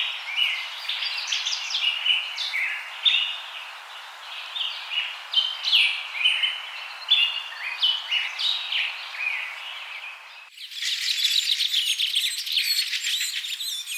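Many rainforest birds chirping and whistling over a steady hiss of forest ambience. About ten seconds in, the soundtrack cuts abruptly to a dense, fast-pulsing high chorus.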